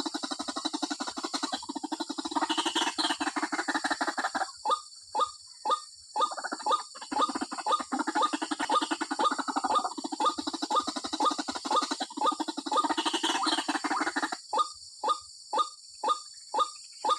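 White-breasted waterhen calling: a fast, rattling croak alternates with runs of separate loud short notes, about three a second. This is the female's call to the male, used as a lure.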